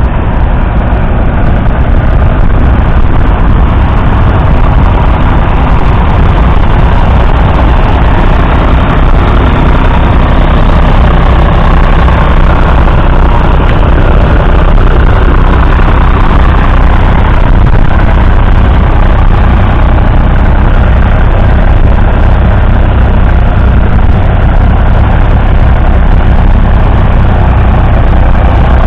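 Ford 4000 three-cylinder diesel tractor engine running steadily and loudly.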